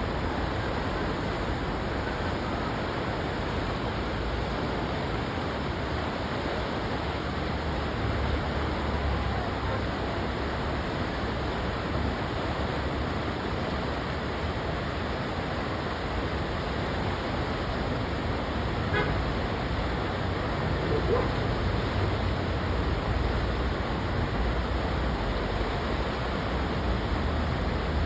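Steady rushing noise of a fast mountain river's rapids.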